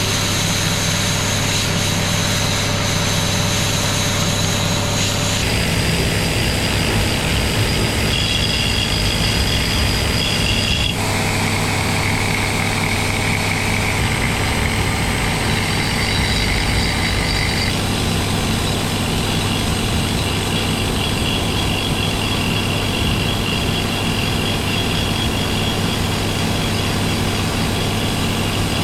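Handheld rotary power tool with a coarse cutter running continuously as it is skipped across an alloy gearbox casing, chipping a texture into the surface. Its high whine shifts to a new pitch several times as the tool is loaded, over a steady low hum.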